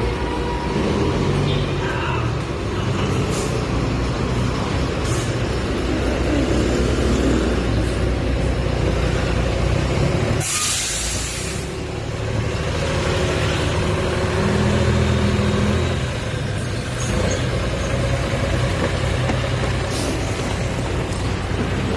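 Motor vehicle engine running steadily with a low hum. About halfway through comes a loud burst of hissing that lasts about a second.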